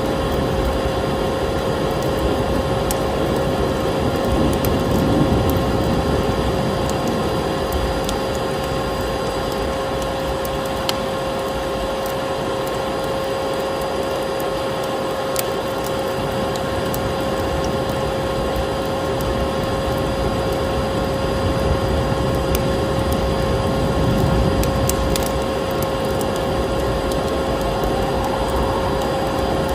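Electric vacuum cleaner running steadily, a constant whooshing hum with a fixed whine, layered with a wood fire in a fireplace that gives scattered sharp crackles and pops.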